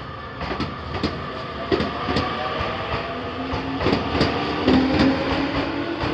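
Keio Inokashira Line electric train rolling over the crossing, its wheels clacking irregularly over the rail joints, with a steady whine that grows from about halfway through.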